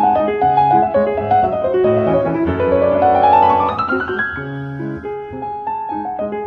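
Background piano music, with a quick rising run of notes about two and a half seconds in.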